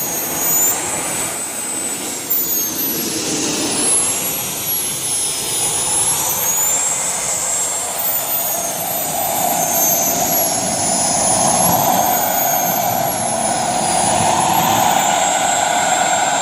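Radio-controlled model jet flying past with a high whine that rises and falls in pitch repeatedly over a steady rushing sound.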